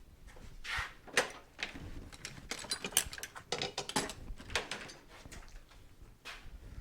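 Metal tools and parts being handled at a workbench: a run of sharp clinks and knocks, bunched around the middle, with a couple of softer scraping or brushing sounds.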